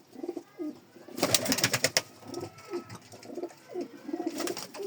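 Domestic pigeons cooing in repeated low notes, with a loud rustling, clattering burst about a second in and a shorter one near the end.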